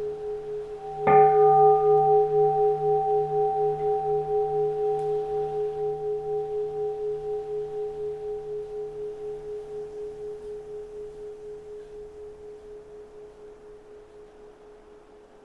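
Keisu, a Zen temple bowl bell, struck once about a second in, its tones ringing with a slow pulsing waver and fading away over the following dozen seconds. Faint wind noise lies beneath.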